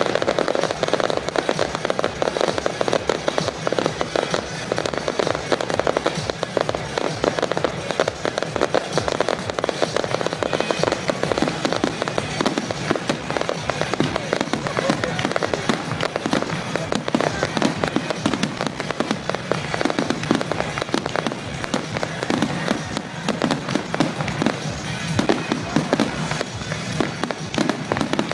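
Fireworks display: a dense, unbroken run of rapid bangs and crackles from bursting shells, with music playing alongside.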